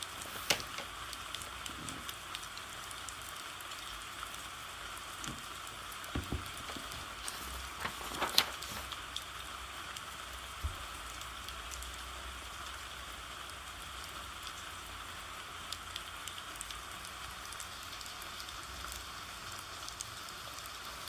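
Steady rain hissing, with a few sharp taps standing out over it, the loudest about eight seconds in.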